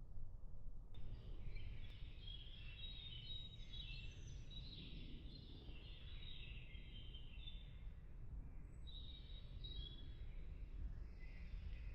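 Several birds chirping and singing, starting about a second in, over a steady low rumble.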